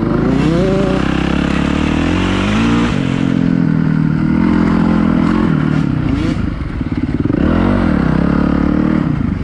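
Off-road dirt bike engine at full ride, revving up and falling back again and again as it shifts through the gears, with a brief drop in revs a little past the middle.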